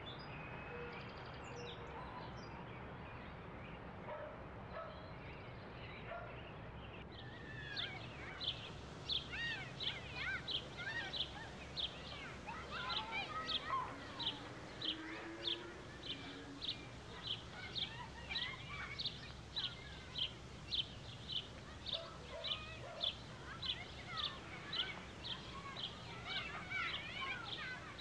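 Outdoor park ambience with birds calling. From about seven seconds in, one bird chirps over and over, about twice a second, among other bird calls.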